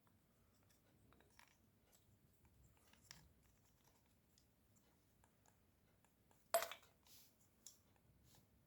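Near silence with faint scattered clicks and taps, and one sharper, louder clack about six and a half seconds in.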